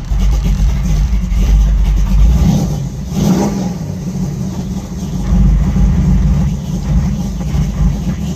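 A 454 big-block V8 with Hooker headers, in a 1953 Ford F100, running just after being started warm, revved up a couple of times over an idle.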